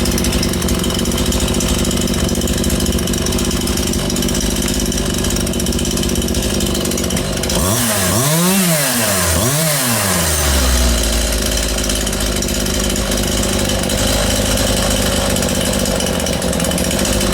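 Stihl MS181 two-stroke chainsaw engine idling, revved up and back down twice about eight seconds in, then settling back to idle. It is running again on a carburettor gummed up by old fuel.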